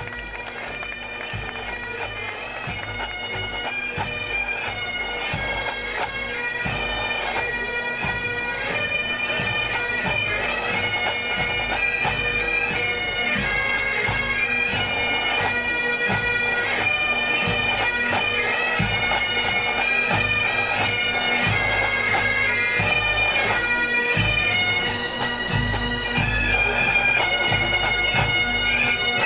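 Massed pipe band playing a march: Highland bagpipes' melody over their steady drones, with drums beating beneath. It grows louder over the first ten seconds or so as the bands march closer, then holds.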